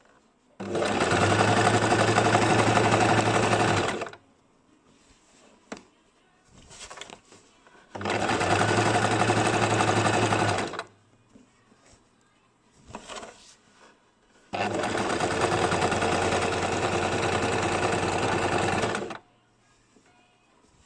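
Basic electric sewing machine stitching in three runs of a few seconds each, the first starting about half a second in, the last stopping near the end. Between the runs there are quiet pauses with a few faint short sounds.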